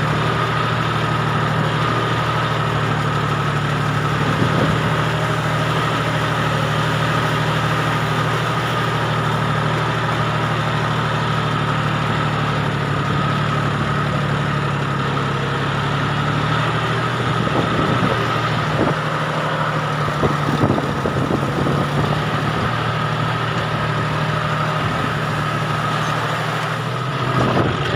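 Tractor engine running steadily at a constant speed, heard from on board, with a steady high tone above the low engine note. Several short knocks and rattles come about two-thirds of the way through.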